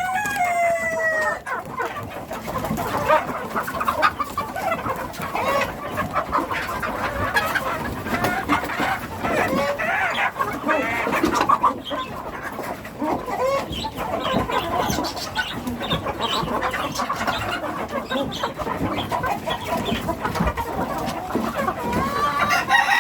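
A flock of chickens clucking and calling without pause, with a rooster crowing at the start and another crow near the end.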